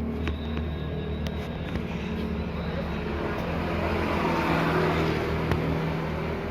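A vehicle engine running steadily, with a swell of broader noise in the middle, like road noise or a passing vehicle.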